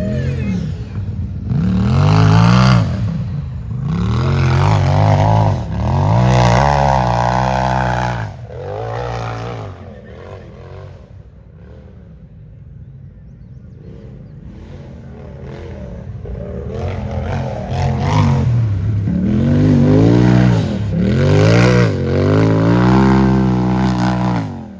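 Race UTV engine revving hard, its pitch repeatedly climbing and dropping as the throttle is worked. It is loud, fades away about ten seconds in, and swells loud again with the same revving in the second half.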